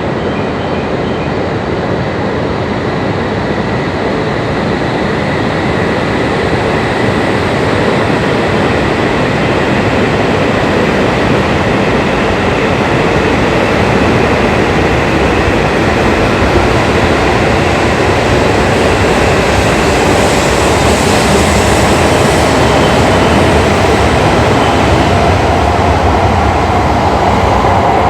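Shinkansen high-speed train running alongside the platform, a loud steady rush of wheels on rail and running gear that slowly grows louder.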